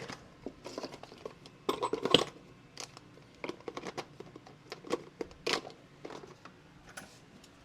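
Small metal tools and parts being handled, with irregular light clinks and clicks and a few louder knocks, strongest about two seconds in and again past the middle.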